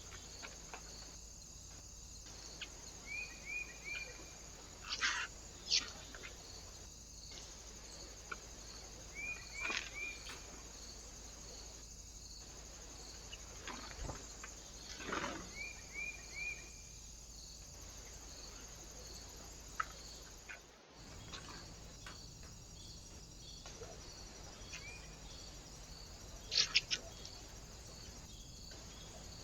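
Small birds calling: scattered sharp, steeply falling call notes and a few quick three-note phrases, over a steady faint hiss with soft regular ticking. The sound cuts out briefly about two-thirds of the way through.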